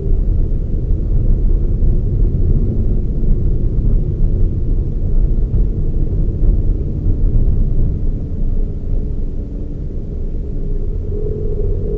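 Toyota Raize GR small SUV being driven: a steady low rumble of engine and road noise. It eases a little past the middle, and a faint steady whine comes in near the end.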